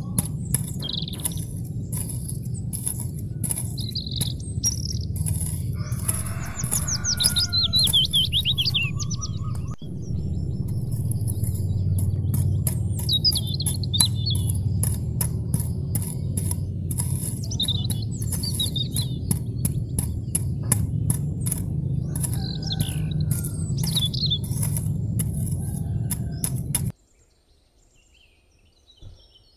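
Birds chirping and twittering over a steady low rumble and a fast, even ticking. It all cuts off abruptly a few seconds before the end, leaving near silence.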